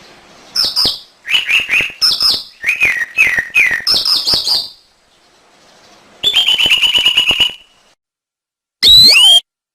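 Domestic canary singing: runs of quick repeated chirping notes, then a fast trill about six seconds in. Near the end comes a short, loud swooping sound, and then the song stops.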